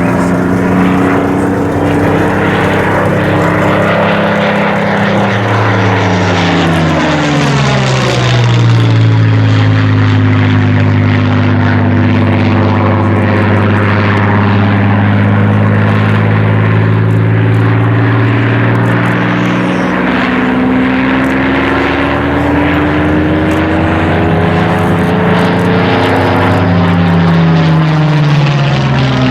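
Rolls-Royce Merlin piston engine of a Spitfire flying display passes, a loud steady propeller-engine drone whose pitch rises and falls several times as the aircraft sweeps past and comes around again.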